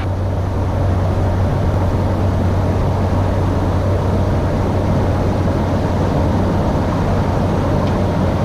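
Cockpit noise of a Cessna 208 Caravan in flight: the PT6A turboprop, propeller and airflow as a steady drone with a constant low hum, on final approach with the speed still kept up.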